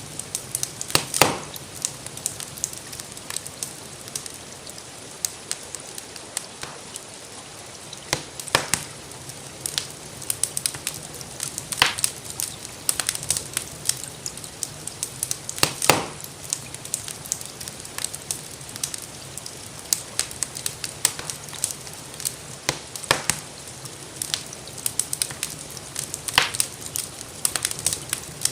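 Wood fire crackling in a fireplace: a constant scatter of small crackles with about half a dozen louder pops, over a steady hiss of gentle rain.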